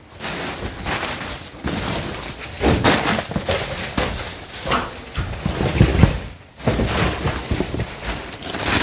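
Wind buffeting the microphone in uneven gusts, with deep rumbles that swell about three seconds in, again around six seconds, and near the end.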